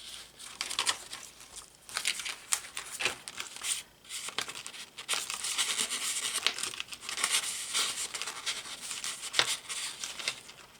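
Paper rustling and crinkling as the pages of a handmade paper journal are handled and turned, with short sharp clicks and taps throughout. The rustling is densest about halfway through.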